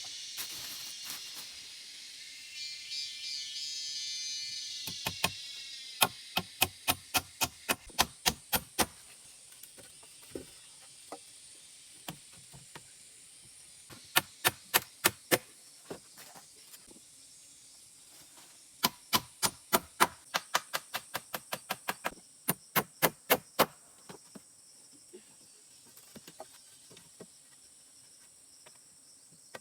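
Three runs of sharp, rapid strikes of a hand tool on wood, about four blows a second, against a high steady insect hum.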